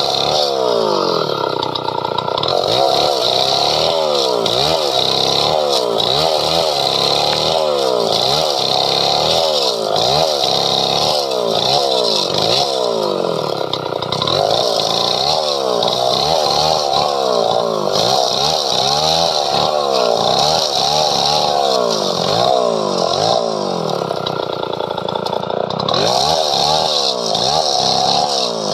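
Two-stroke chainsaw cutting through padauk wood, its engine pitch rising and falling over and over, about once a second, as it bogs in the cut and revs back up.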